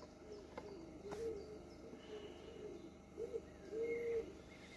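Faint bird calls: a series of low notes that rise and fall, the loudest and longest near the end, with a few faint clicks.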